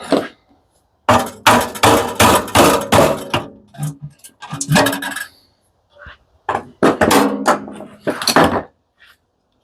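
Metal parts of a commercial coffee machine being knocked and banged during dismantling: three quick runs of clanks with a short metallic ring.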